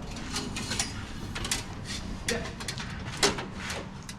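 Scattered light clicks and taps of hand tools working brake line fittings, over a low steady hum.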